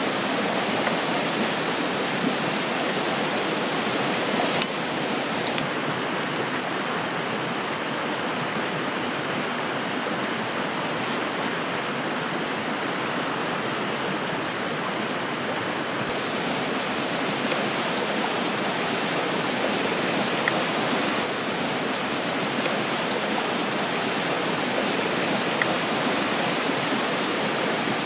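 Steady rushing of a river or stream, an even wash of water noise, with a few faint clicks.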